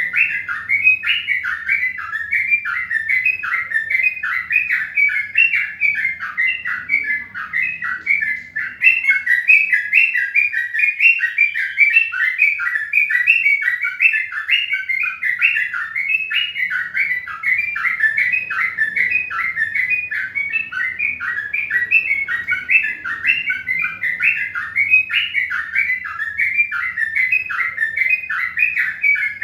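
A bird chirping rapidly and without pause, short falling chirps at about three a second.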